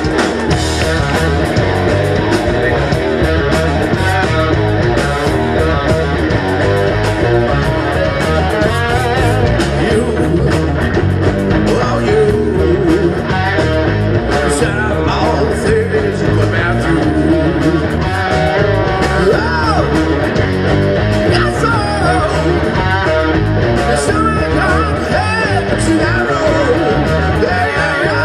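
Live rock band playing loudly, with guitar prominent.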